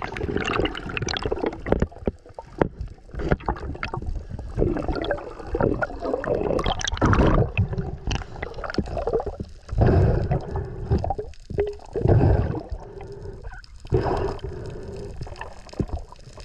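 Water gurgling and sloshing around an action camera held at or under the sea surface while swimming, with irregular heavy thumps of water against it.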